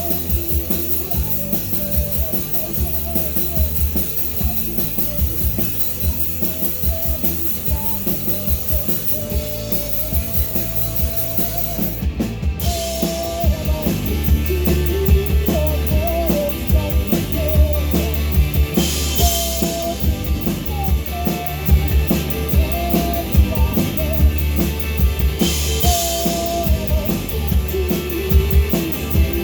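Live rock band playing a fast song, with the drum kit prominent over bass and guitar. The band gets a little louder about halfway through.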